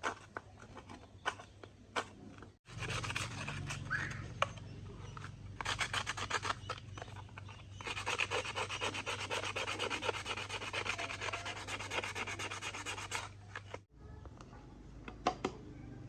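Rapid, even rubbing strokes against a hard surface, dense at several strokes a second over a steady low hum, starting and stopping abruptly. A few separate clicks come before and after.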